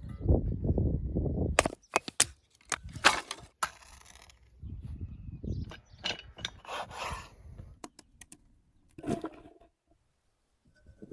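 A series of sharp cracks and knocks, several close together, with stretches of low rumbling noise between them; it dies away near the end.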